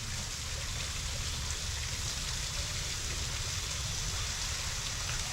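Steady outdoor background noise: a low, fluctuating rumble under an even hiss, with no distinct events.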